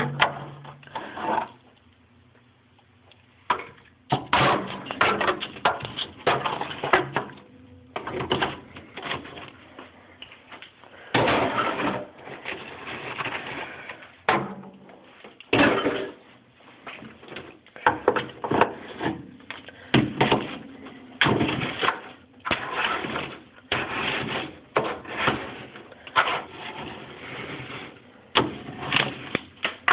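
Hammer chipping at ice inside a refrigerator: irregular knocks and crunches, often in quick runs, with a few longer rough stretches.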